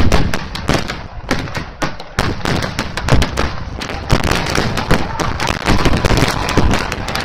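Fireworks display: a dense, rapid run of shell bursts and crackling bangs, the loudest near the start. The bangs echo off the mountains around the lake.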